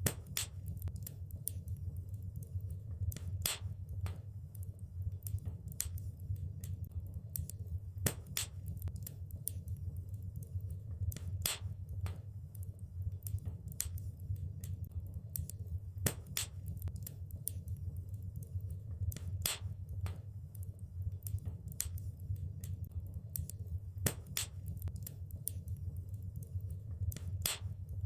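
Wood fire crackling in a fireplace: irregular sharp pops and snaps, several of them louder than the rest, over a steady low rumble of the burning fire.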